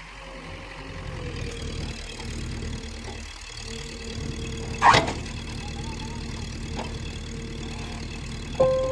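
Diesel engine of heavy machinery running steadily, with one sharp loud knock about five seconds in.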